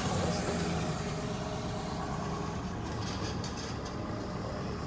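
A motor vehicle engine idling with a steady low rumble.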